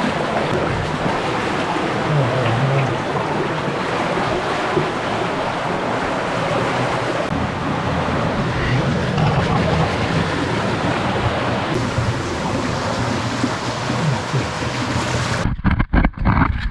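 Creek water rushing through a boulder-choked granite cave passage: a loud, steady rush that breaks off abruptly about a second before the end.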